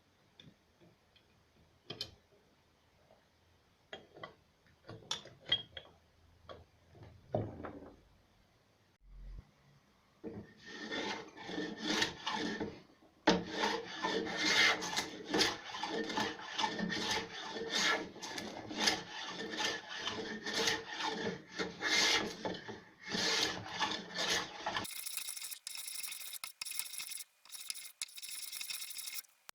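Wood being worked by hand with an abrading tool: quick, repeated scraping strokes. The strokes start about ten seconds in, after a few scattered taps, and turn to a thinner, higher hiss near the end.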